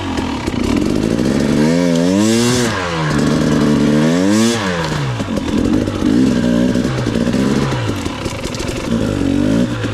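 Off-road vehicle engine being ridden hard, its pitch climbing and dropping again about four times as the throttle is opened and shut.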